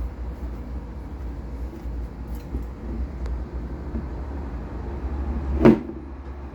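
Volkswagen Golf air-conditioning compressor (part 1JE820803) running with a steady low hum. There is a single sharp knock a little before the end.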